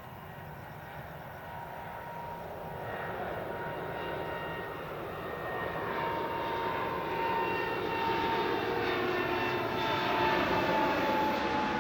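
Jet engines of a Boeing 787-8 airliner running at take-off power, growing steadily louder as it comes closer. A whining tone over the roar slides slightly lower in the second half.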